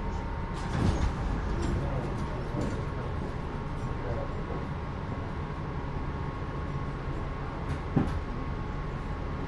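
Los Angeles Metro Rail train running with a steady low rumble and a steady thin whine. There are two brief knocks: one about a second in and a sharper one near the end.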